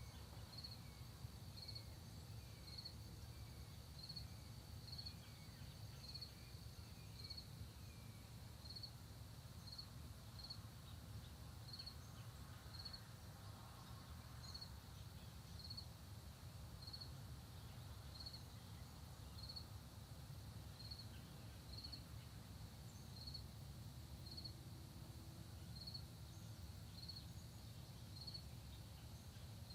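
Faint countryside dawn ambience: an insect, likely a cricket, gives a short high chirp about once a second throughout. A run of quick falling chirps, about two a second, sounds in the first several seconds. A steady low rumble lies underneath.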